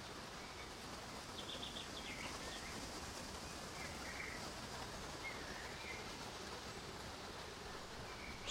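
Quiet forest ambience: a steady, faint hiss with a few scattered, faint bird chirps.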